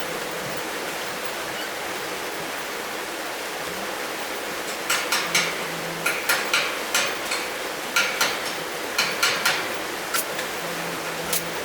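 Steady rush of flowing water. About five seconds in, a run of sharp knocks begins, about a dozen strikes over four seconds, and one more comes near the end.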